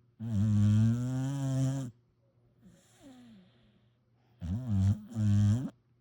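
A sleeping pit bull–Labrador mix puppy snoring. There is one long loud snore, a faint one, then two shorter loud snores close together near the end, each with a wavering pitch.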